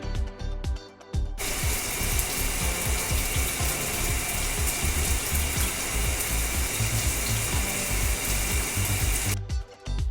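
A steady spray of water hissing, a car-wash sound effect, starts about a second and a half in and cuts off suddenly about a second before the end, over background music with a steady beat.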